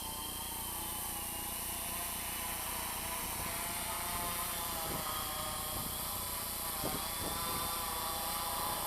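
Multirotor drone on Hacker A30-28L brushless motors and a 6S battery, hovering with a loud, steady whine of motors and propellers. The pitch wavers slightly as the flight controller holds position in strong wind.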